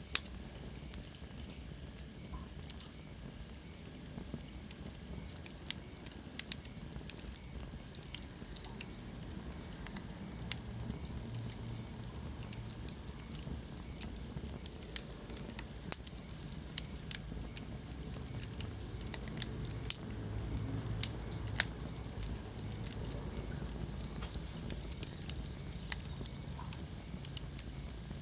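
Wood fire burning in a fireplace, crackling with frequent irregular pops over a steady low rumble of the flames. A faint high whistle drops in pitch in the first few seconds.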